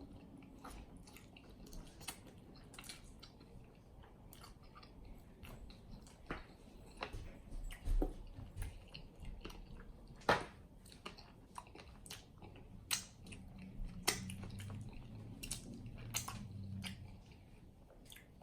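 Close-miked eating: a man biting and chewing sauce-covered chicken wings, with scattered wet smacks and clicks, a few of them louder.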